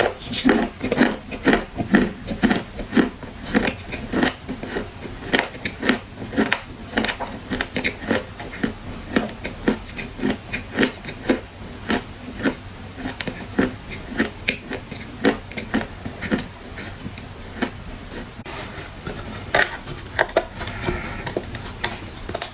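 Dried clay crunching: a dense, irregular run of sharp, crisp cracks and crumbles, several a second.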